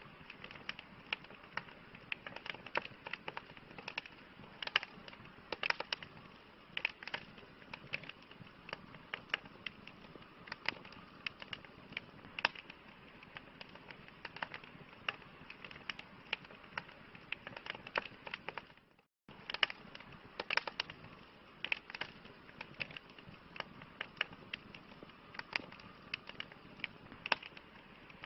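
Wood fire crackling: irregular sharp pops and snaps, several a second, over a soft steady hiss. The sound cuts out completely for a moment about two-thirds of the way through, then resumes.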